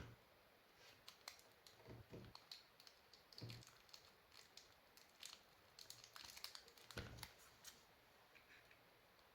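Faint scattered clicks and light taps of small hard objects being handled, with a few soft low knocks, over a very quiet background.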